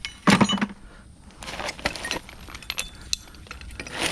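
Rusty metal hand tools being tossed into a bucket of tools: one loud clank about a third of a second in, then scattered clinks and rattles of metal on metal.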